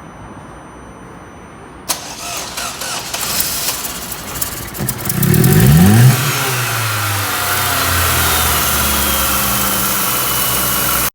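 Chevrolet Tornado's four-cylinder engine being started. About two seconds in there is a click, then a few seconds of the starter cranking. The engine catches with a quick rev and settles into a steady idle.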